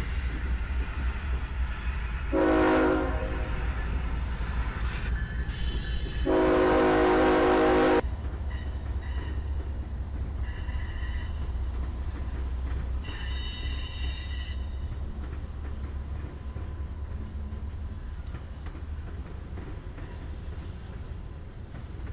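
Diesel locomotive horn blowing two blasts, the second longer, over the steady low rumble of a moving freight train. After the horn, the wheels squeal in short, high-pitched bursts.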